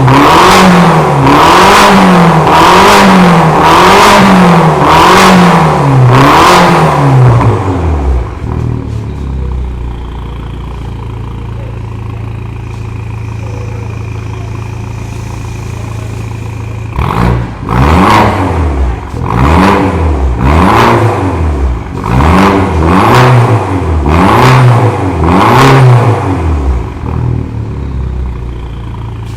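BMW 316i four-cylinder engine breathing through a new stainless steel exhaust and downpipe, revved in quick blips about once a second. It settles to a steady idle about eight seconds in, is blipped again from about seventeen to twenty-seven seconds, then idles again.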